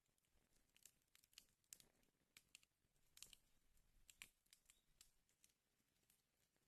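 Wood fire in a fireplace crackling quietly, with irregular sharp pops and snaps.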